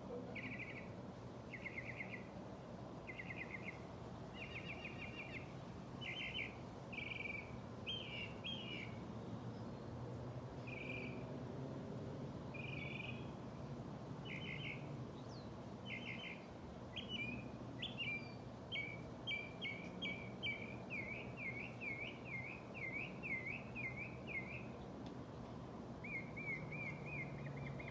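A songbird singing phrase after phrase, each one repeated a few times: short trills at first, then a long run of quick swooping notes in the second half. A steady low hum sits underneath.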